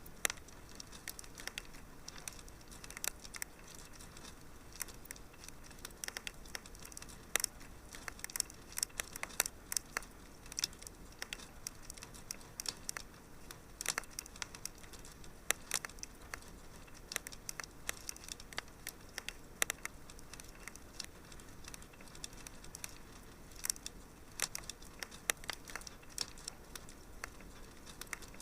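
Wood fire crackling in a fireplace: a soft steady hiss with dense, irregular crackles and occasional sharper pops.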